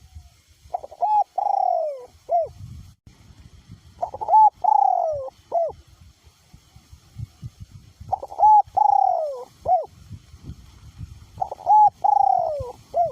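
Male spotted dove cooing: four repeated call phrases about four seconds apart. Each phrase has two short notes, a long falling note and a short closing note.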